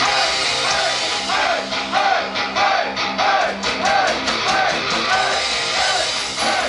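Rock band playing live: electric guitars and drums, with a short arched melodic figure repeating about twice a second over the full band.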